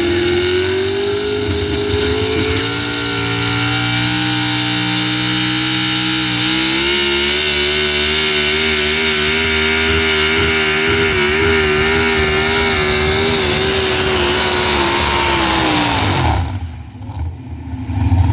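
Pulling truck's engine run at high revs under load down the track, its pitch climbing early, then held high with a slight wavering. About sixteen seconds in the revs fall away as the driver lets off, and a loud low rumble comes back near the end.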